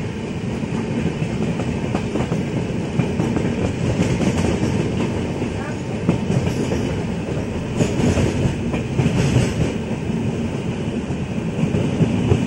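Passenger train running at speed, heard from inside the coach beside an open barred window: a steady rumble and rattle with the wheels clicking over the rail joints.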